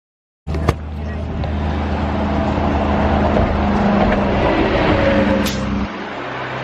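A motor vehicle's engine running steadily, growing a little louder over several seconds, with its sound changing abruptly near the end.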